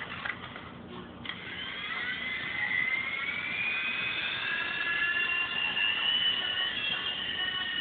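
Small electric motors of a toy RC helicopter whining: the pitch falls away briefly, then rises again from about a second in and holds steady as the rotors spin up.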